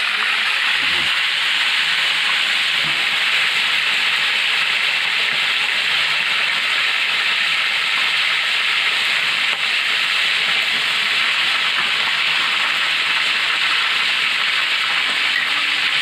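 Food frying in hot oil in a steel wok, a steady sizzling hiss.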